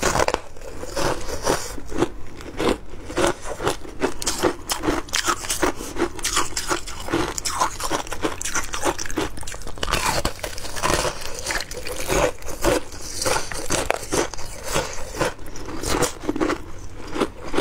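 Frozen passion fruit ice being bitten and crunched between the teeth: a continuous run of crisp crunches, several a second.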